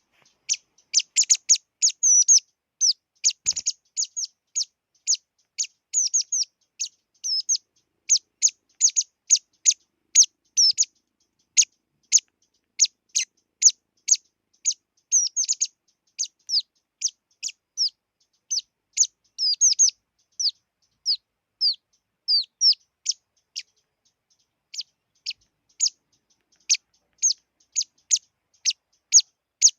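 A small songbird, the bird called chi chi in Vietnamese, calling in a long run of short, sharp, high-pitched chirps, each a quick downward sweep, about two or three a second, thinning out for a few seconds past the middle.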